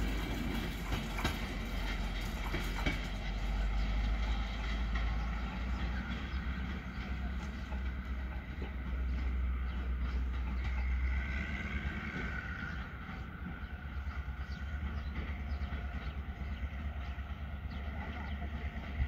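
Passenger coaches rolling away along the track, the wheel and rail noise fading as the train recedes, over a steady low rumble.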